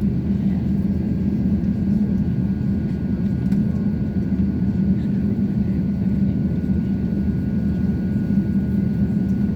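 Steady cabin noise inside an Airbus A350-900 taxiing: a deep, even hum of the engines at low power and the air-conditioning, with a faint thin steady high tone over it.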